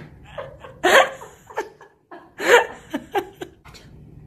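Pet parrot making laugh-like calls, two main bursts with shorter chuckles around them.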